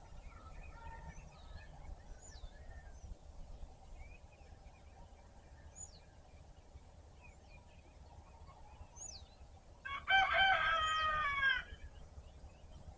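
A rooster crows once, loud, about ten seconds in, lasting about a second and a half and dropping in pitch at the end. Faint, short, falling chirps of small birds come through now and then over a low steady rumble.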